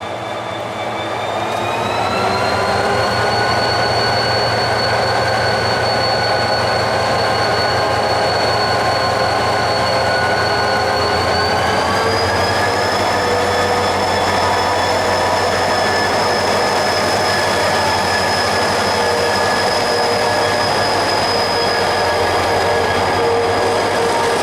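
A train moving through a station, with a steady multi-tone whine over running noise. The whine rises in pitch as the sound comes in, holds, then steps up again about halfway through.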